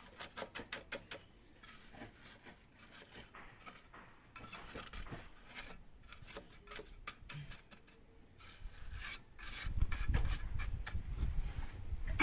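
Scraping and rubbing at a building site's pipework: a quick run of short scrapes about six a second at the start, then irregular scrapes, with a low rumble from near the end.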